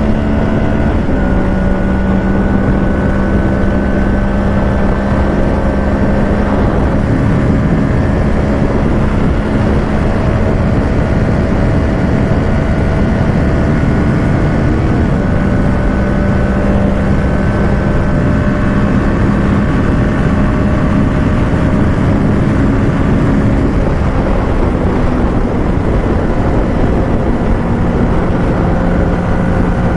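Kawasaki Ninja 650 parallel-twin engine, breathing through a Shark SRC-4 aftermarket full exhaust, running at steady cruising revs, its note easing and rising slightly a few times, over steady wind and road noise.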